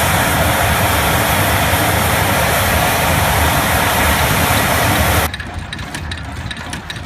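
Propeller aircraft engine running loudly close by, then cutting off suddenly about five seconds in to a quieter steady engine hum.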